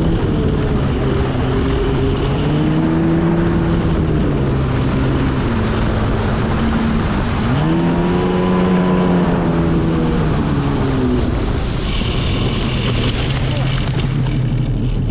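1994 Yamaha Wave Raider jet ski's two-stroke engine running under way over a hiss of water and wind, its pitch rising and falling with the throttle, with a strong rev about eight seconds in.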